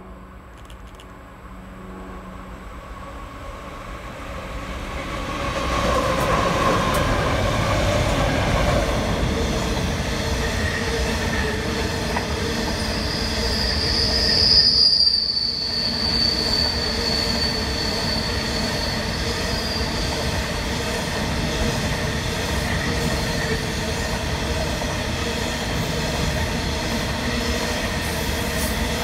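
Freight train hauled by CEY-class diesel locomotives approaching, growing louder over the first six seconds, then passing with a steady rumble of locomotives and wagons. A high wheel squeal rises out of it about halfway through and fades a few seconds later.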